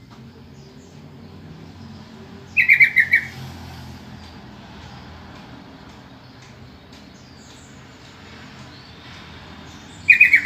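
Yellow-vented bulbul calling: a short, loud burst of quick bubbly notes, each dropping in pitch, about two and a half seconds in, and the same phrase again near the end.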